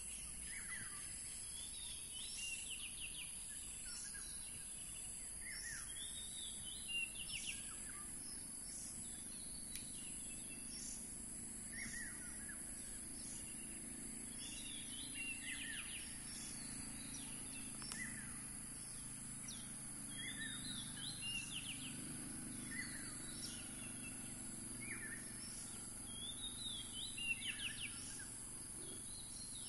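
Birds calling over and over with short, falling chirps, a second or two apart, over a steady high hiss of outdoor background noise.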